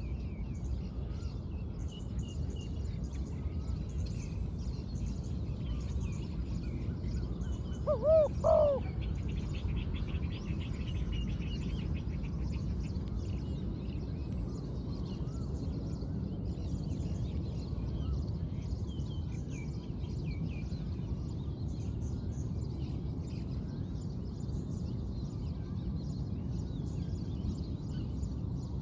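Spotted dove cooing once, a short two-note phrase about eight seconds in. Faint chirping of small birds and a steady low rumble run on around it.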